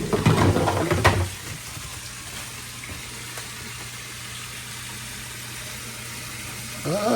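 Koi pond water circulating with a steady fizzing trickle and a low steady hum. About the first second also holds rustling and a few clicks.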